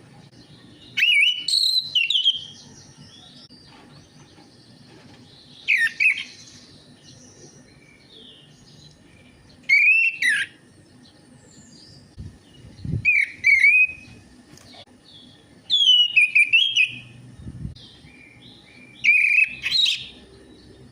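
Orange-headed thrush singing: six loud phrases of quick, sweeping whistled notes, one every three to four seconds, with softer notes between them.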